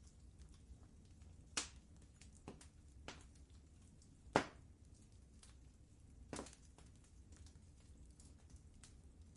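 Wood fire in a fireplace crackling: scattered sharp pops and snaps, about five of them, the loudest a little past four seconds in, over a faint steady low rumble.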